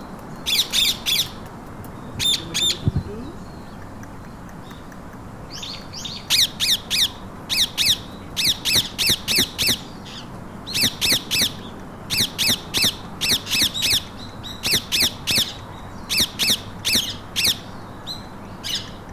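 Pet parakeets screeching in quick runs of three to five sharp, high-pitched calls, run after run, with only short pauses between runs after the first few seconds.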